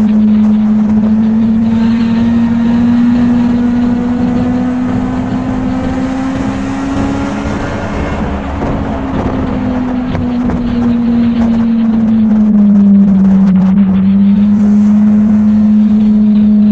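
Motorcycle engine running steadily while riding, its pitch rising slightly toward the middle and easing down a little later on, over a steady rush of wind noise.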